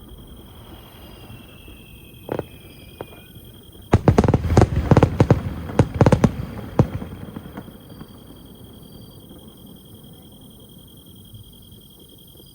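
Aerial fireworks: a thin whistle falling slightly in pitch, a single bang, then about four seconds in a rapid cluster of crackling bangs lasting some three seconds before the echo dies away. A steady high insect trill runs underneath.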